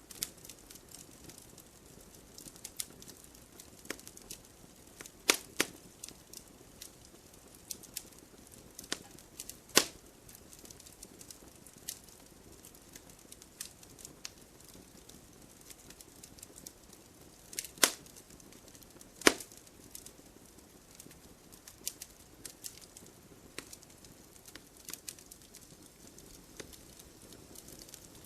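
Wood fire burning: a soft steady hiss with frequent small crackles and a few loud sharp pops as the logs snap.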